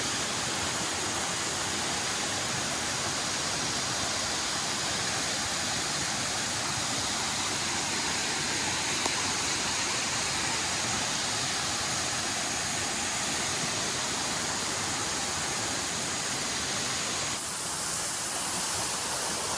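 Waterfalls rushing: a steady, even wash of falling water. About two seconds before the end the sound changes abruptly to a brighter hiss.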